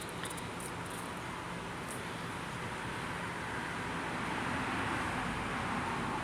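Steady hiss of rain, with a vehicle's tyre hiss swelling as it passes on the wet road, loudest about five seconds in.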